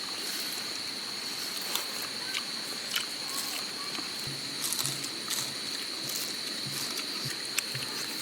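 Outdoor ambience dominated by a steady high-pitched insect drone, with scattered sharp clicks and, from about halfway, a run of short low pulses about twice a second.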